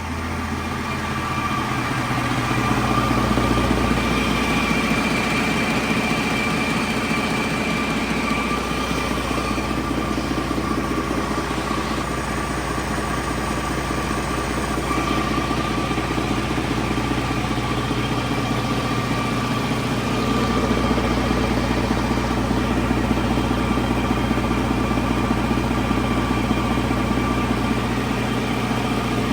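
2014 Detroit Diesel DD15 14.8-litre inline-six diesel engine idling steadily.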